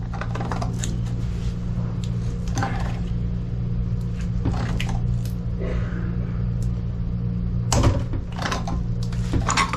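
Scattered metallic clinks and knocks of hand tools and pipe fittings being worked, over a steady low hum; the loudest knock comes near the end.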